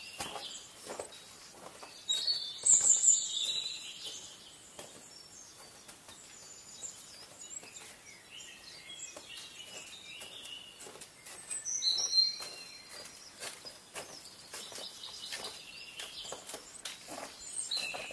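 Songbirds singing in bursts of high chirping warbles, loudest a couple of seconds in and again about twelve seconds in. Under them, faint footsteps and trekking-pole taps crunch on icy snow.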